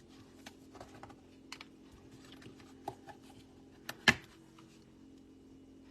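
Scattered light clicks and taps of a metal cutting die and a clear stamp being handled and fitted together on a craft table, with one sharper knock about four seconds in.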